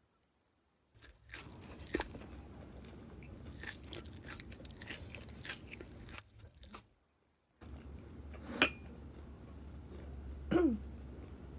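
Crispy cheese-and-wonton-wrapper dumplings being bitten and chewed close to the microphone: a run of crisp crunching with crackles, broken by two short silent gaps. Near the end there is a single sharp click and a brief falling hum.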